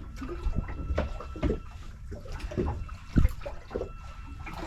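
Water sloshing and slapping against the hull of a small boat, with irregular low knocks.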